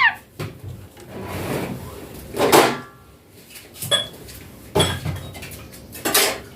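Pet talking parrot giving short, harsh squawks a few seconds apart, with sharp clicks in between.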